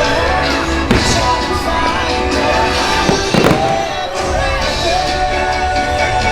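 Fireworks bursting over the loud music of the fireworks show's soundtrack, with the sharpest booms about a second in and again around three to three and a half seconds in.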